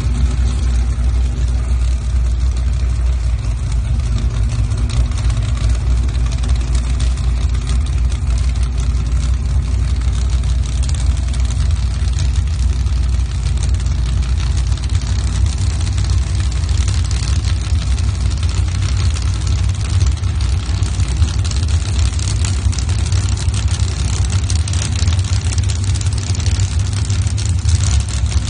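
Small-block Chevy V8 engines of sand drag Jeeps idling steadily at the starting line, a low, even rumble.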